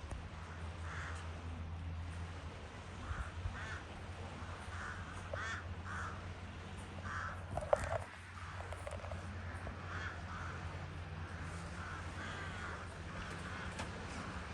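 Crows cawing over and over, about once a second, with one louder, closer call about halfway through, over a steady low hum.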